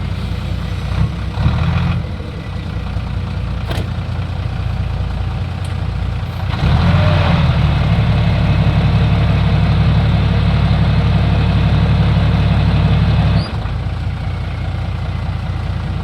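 Heavy diesel engine idling, then running harder and louder for several seconds in the middle before dropping back suddenly to idle.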